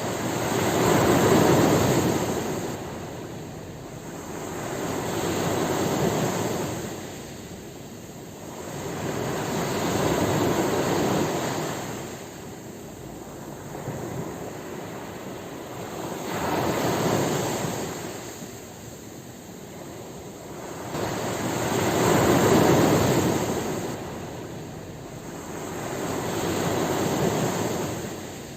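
Ocean waves breaking and washing ashore, each surge swelling and fading about every five seconds.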